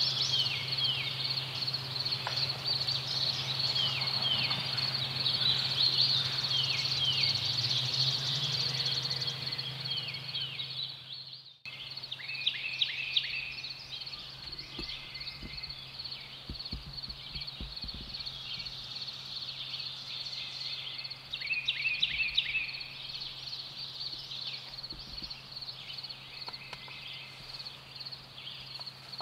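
Songbird chorus: many short, downward-sliding chirps over a steady high trill. The sound cuts off abruptly about twelve seconds in and then resumes.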